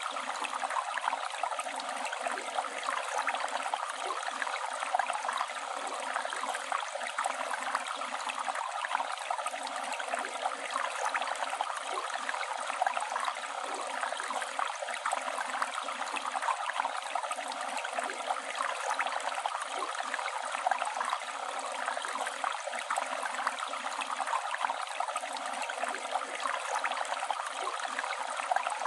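Flowing river water: a steady rush with fine babbling and splashing, unchanging throughout.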